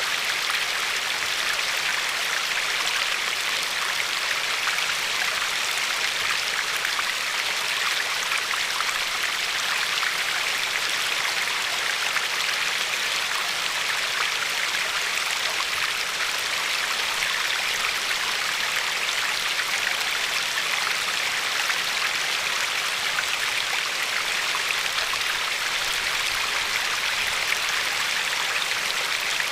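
River water flowing and lapping along a pebbly shore: a steady rush of water with fine splashing.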